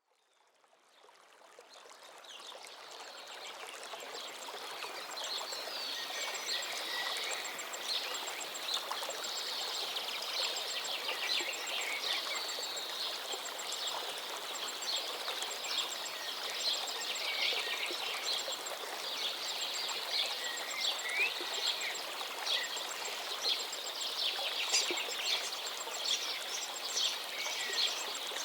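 Birds singing and chirping over the steady rush of a flowing river, fading in over the first few seconds. Among the song is a repeated rapid high ticking call.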